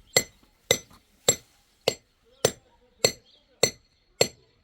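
Hammer blows on metal at an even pace, eight strikes nearly two a second, each with a short metallic ring.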